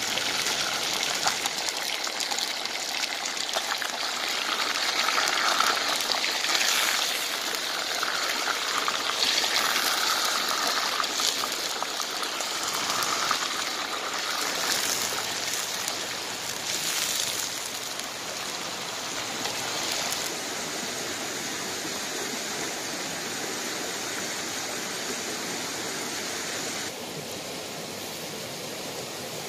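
Frogs frying in a clay pot make a steady sizzle, with occasional scrapes as they are stirred with a wooden spatula. Near the end the sizzle drops away, leaving a softer steady hiss.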